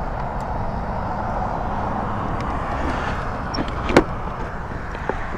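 Steady road traffic noise, with a sharp click about four seconds in.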